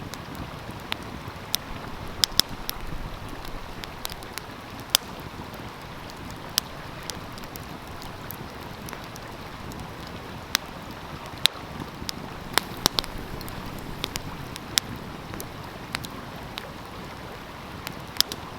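Wood fire crackling, with irregular sharp pops a few times a second, over the steady rush of a flowing stream.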